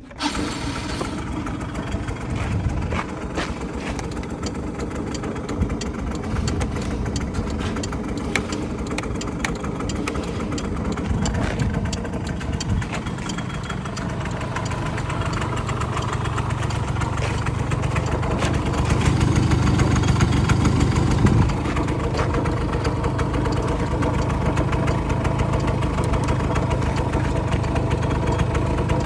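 KYMCO Sooner 100 scooter engine catching right at the start, then idling steadily. It runs louder for about two seconds around twenty seconds in, then drops back to idle.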